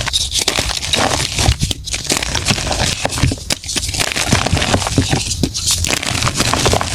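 Blocks of gym chalk being crushed and crumbled, a dense crunchy crackle that eases off briefly about every two seconds.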